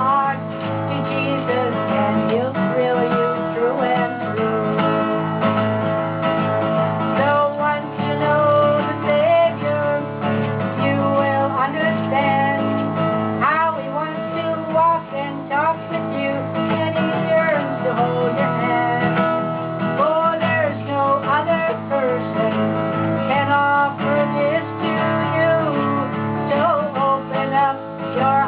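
Acoustic guitar strummed and picked in a steady song accompaniment.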